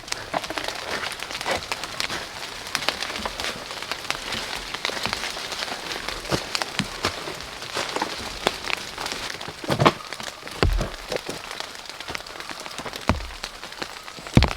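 Steady rain with many close drops ticking. A few heavier drops land louder, about ten and thirteen seconds in and again right at the end.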